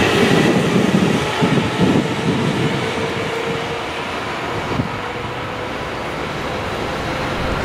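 JR Tokaido Line electric commuter train running past on the station tracks. Its wheels clack over the rail joints, most heavily in the first two seconds, with a steady tone underneath that eases off as it goes.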